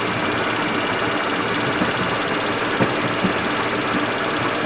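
Steady flight-deck noise of a Boeing 737-200 with its Pratt & Whitney JT8D engines idling, a low hum running under an even rush of sound, with a few faint knocks about three seconds in.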